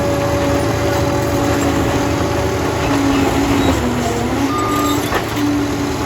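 Liebherr PR 746 crawler dozer's diesel engine running under work, with a steady rumble and a whine that shifts in pitch.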